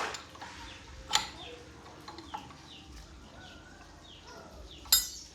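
Metal clinks of tools or engine parts being handled: one sharp clink about a second in and a louder, ringing one near the end. Short high falling chirps repeat in between.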